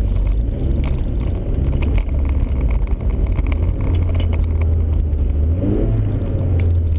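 Honda Civic engine running hard under throttle, heard from inside the cabin with tyre and body noise over a snowy surface; its pitch rises briefly about six seconds in.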